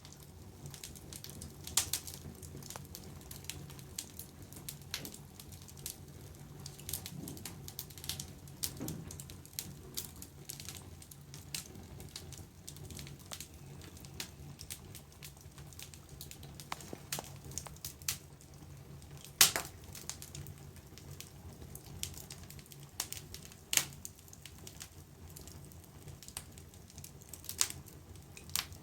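Wood fire crackling in a fireplace: irregular sharp pops and snaps, a few loud ones standing out, over a steady low rumble.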